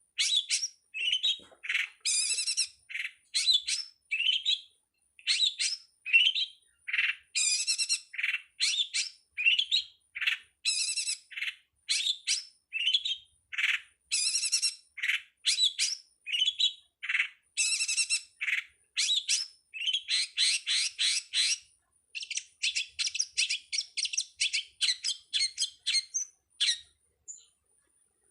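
Long-tailed shrike (pentet/cendet) singing a masteran song. It is a continuous string of short, quick chirping and squawking phrases, one after another with brief pauses, including a pause of about a second a little before the end.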